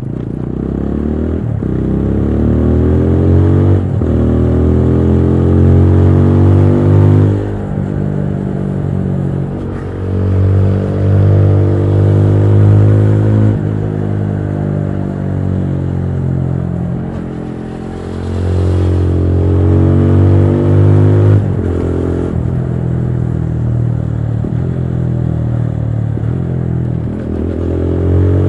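TVS Apache RTR 200 4V's single-cylinder engine running under riding load. Its pitch climbs and falls again and again, broken every few seconds by sudden drops as the rider changes gear.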